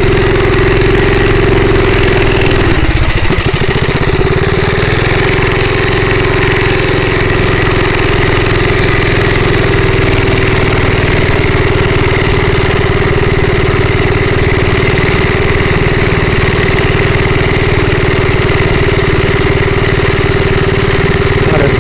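Bonanza minibike's small single-cylinder gas engine running steadily under way, with a brief wobble and dip in the engine note about three seconds in.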